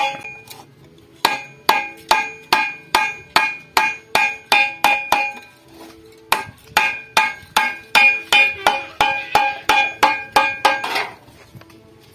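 Steady hammering on sheet metal salvaged from an old refrigerator, about two to three ringing metallic blows a second. There are two runs of blows with a brief pause between them, and the blows stop near the end.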